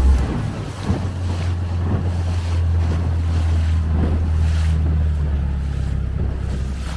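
A small motorboat's engine running steadily underway, with water rushing past the hull and wind buffeting the microphone.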